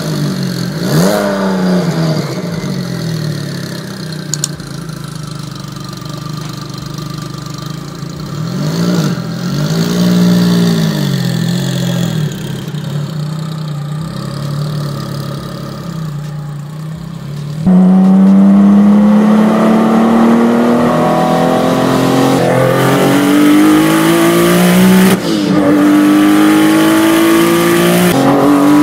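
High-performance sports car engine revved twice at a standstill, with a steadier running note between the blips. Then, after a sudden jump in loudness a little past halfway, it is heard from inside the cabin under hard acceleration: its pitch climbs, falls sharply at an upshift, and climbs again.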